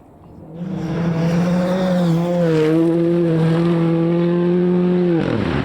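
Rally car engine coming up suddenly at high revs, holding a steady pitch for about four seconds. Near the end the pitch drops sharply as it lifts off for the corner, with a rush of tyre and gravel noise.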